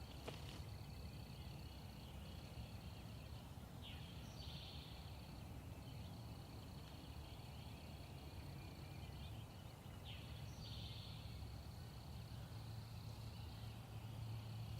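Faint outdoor ambience in the woods: a steady high-pitched insect drone with two short bird calls, about four and about ten seconds in, over a low steady hum.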